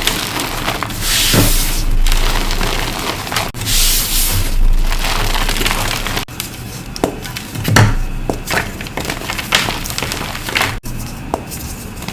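Re-formed blocks of gym chalk crushed by hand, crunching and crumbling. Two dense bursts of crumbling in the first half, then a run of sharper separate cracks and snaps as pieces break.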